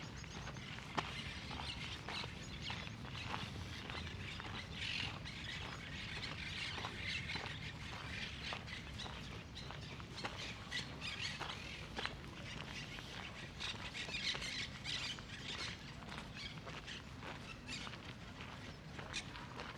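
Park ambience: birds chirping and squawking, with regular footsteps on a path and a steady low rumble beneath.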